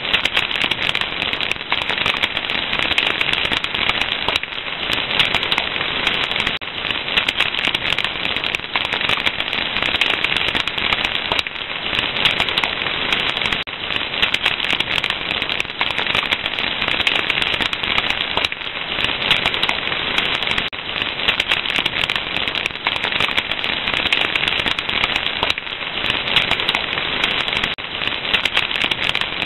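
Fire crackling, a dense, unbroken stream of small pops and snaps over a steady hiss.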